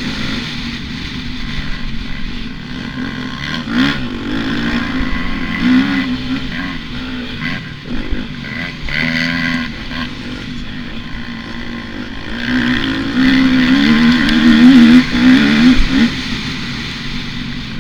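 Motocross bike engine running and revving up and down as the throttle is worked, getting loudest with quick rises and falls in pitch about three quarters of the way through, then easing back.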